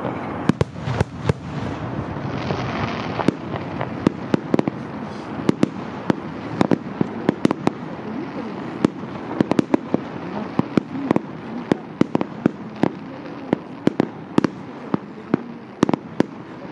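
Fireworks display: aerial shells going off in a rapid, irregular series of sharp bangs, often several a second, over a continuous noisy rumble and crackle.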